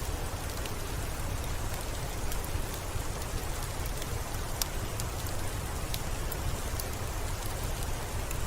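Steady rain falling, with a low rumble underneath and scattered sharp ticks.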